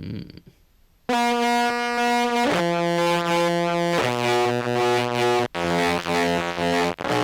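Contrabass clarinet played through a fuzz pedal: a short burst, then long held, heavily distorted notes, each step lower in pitch.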